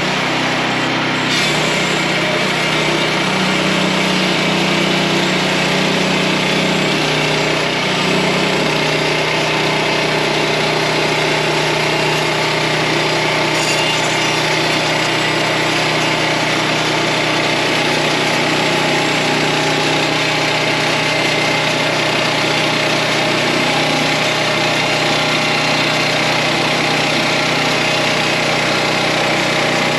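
Portable sawmill's engine running steadily at an even pitch.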